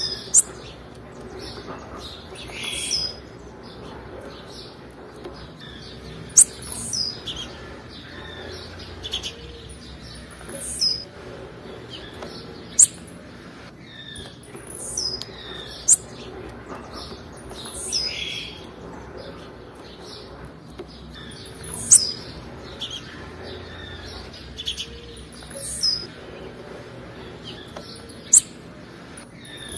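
Female blue-black grassquit (tiziu) calls: short, high chirps that drop sharply in pitch, repeated every few seconds, with softer chirps in between.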